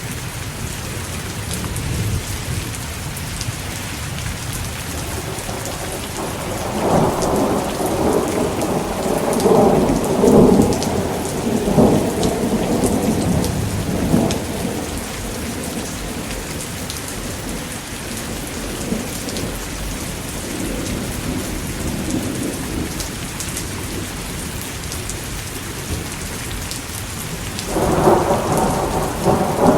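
Steady rain pouring down, with a long roll of thunder rumbling through the middle for several seconds and another thunder rumble starting near the end.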